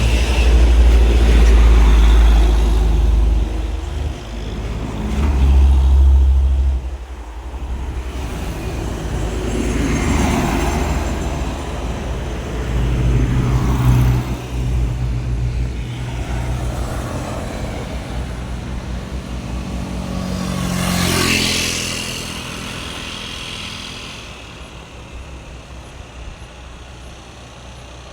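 Truck engines rumbling on a road, with heavy low engine noise loudest in the first six seconds, vehicles passing by about ten and twenty seconds in, then fading away toward the end.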